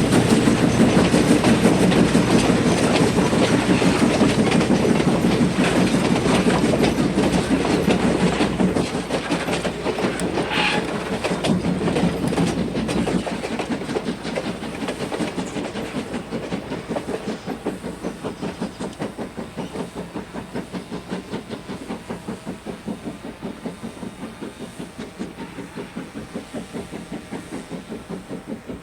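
Steam-hauled excursion train rolling in, its wheels clicking over the rail joints in an even rhythm; loud at first, then fading over the second half. A brief high squeal about ten seconds in.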